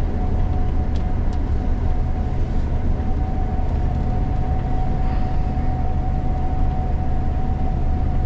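Gleaner combine harvester running steadily, heard from inside the cab: a continuous low engine drone with a steady high whine over it.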